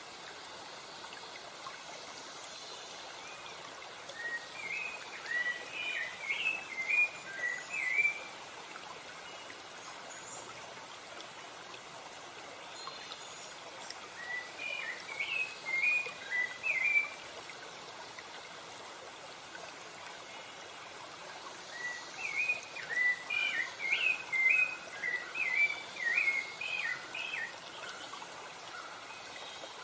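Rushing stream or waterfall noise running steadily under a songbird's phrases of quick, whistled up-slurred notes, sung three times: a few seconds in, in the middle, and a longer phrase near the end.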